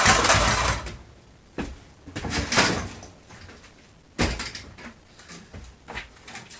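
An old refrigerator cabinet being worked apart: a few irregular scraping, crunching noises, the longest and loudest in the first second, then shorter ones a couple of seconds and about four seconds in, with faint clicks near the end.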